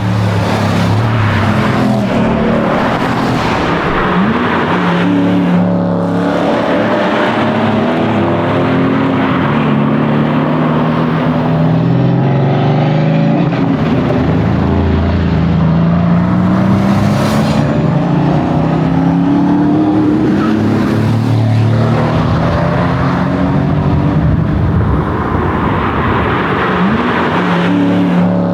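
Mercedes-AMG C63 engine being driven hard, its pitch climbing under acceleration and dropping off again and again as it works through the gears.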